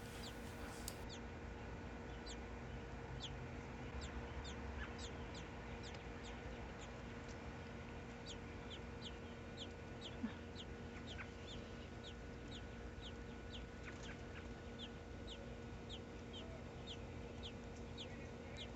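Faint, short, high chirps of a small bird, each sliding downward, repeated about twice a second, over a steady low hum. A single soft knock about halfway through.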